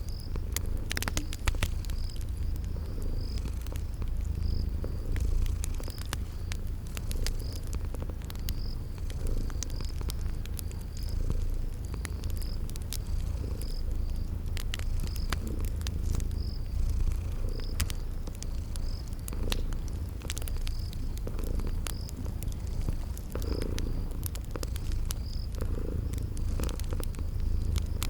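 A cat purring steadily, its low rumble swelling and easing with each breath, layered with a cricket chirping about once a second and the sharp crackles and pops of a wood fire.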